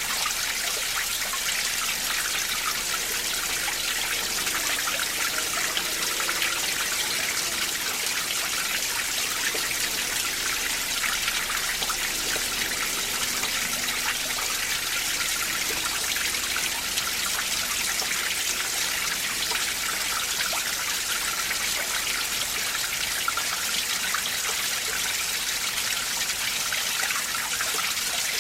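Winter mountain stream flowing over rocks in a deep valley: a steady rush of water with light gurgling.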